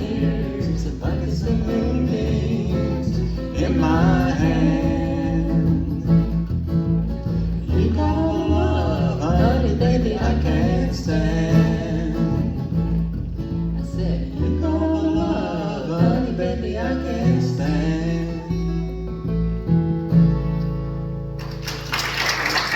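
Guitar playing chords with a voice singing a folk song. Near the end a last chord is held and rings out, and a steady hiss comes in.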